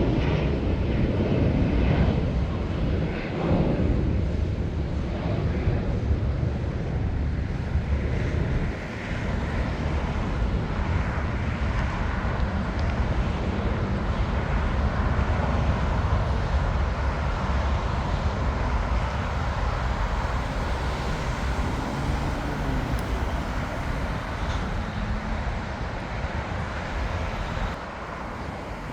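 Jet airliner engines, a loud steady rush that slowly fades near the end.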